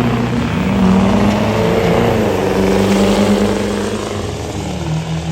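A high-horsepower diesel truck engine running hard at high revs, its pitch wavering and then dropping a little in the last second and a half.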